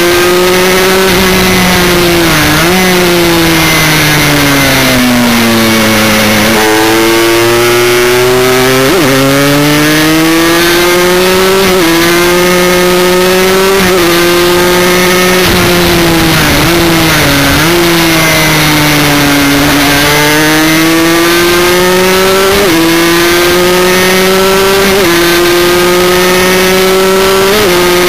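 Aprilia 125 Extrema's two-stroke single-cylinder engine, ridden hard on track: its pitch sinks as it slows for a corner, then climbs as it is opened up again, with sudden pitch jumps at gear changes. Strong wind rush on the microphone.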